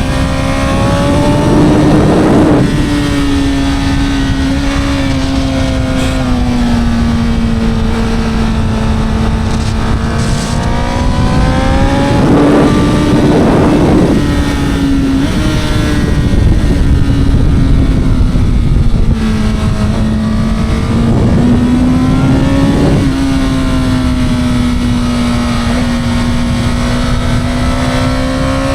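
On-board sound of a 2026 Honda CBR1000RR's 999cc inline-four engine and exhaust, held at high, fairly steady revs with the pitch rising and falling gently over several seconds. Rushing wind noise swells a few times.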